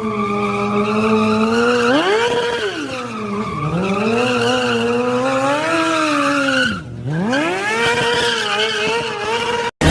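Vehicle engine held at high revs, its pitch swinging up and down, with a deep drop and quick climb back about seven seconds in. It cuts off suddenly near the end.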